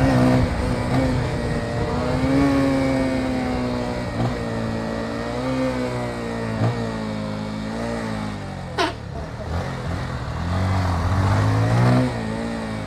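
Motorcycle engine running under way, its pitch rising and falling repeatedly with throttle and gear changes, with a sharp brief sound about nine seconds in.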